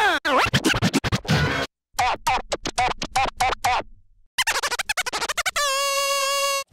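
Cartoon soundtrack: fast, choppy music with record-scratch-like sweeps, cut by two short silences, ending in a held, wavering tone.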